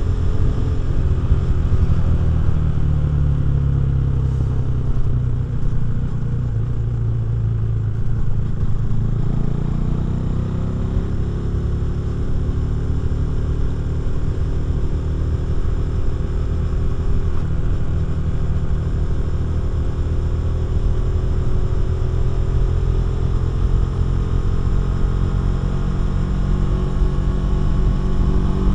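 KTM 390 Duke's single-cylinder engine and Remus exhaust while riding: revs drop off over the first several seconds, climb again about ten seconds in, hold fairly steady, then rise once more at the end.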